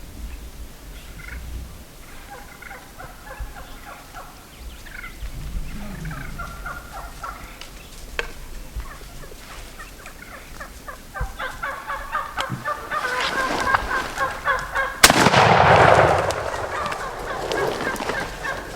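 Gould's wild turkeys gobbling, the calls growing thicker and louder, then a single shotgun blast about fifteen seconds in. The shot is the loudest sound, with a loud burst of noise for a second or two after it.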